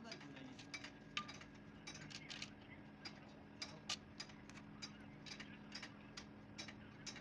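Irregular small metallic clicks and taps of hand tools working on engine parts, over a steady low hum.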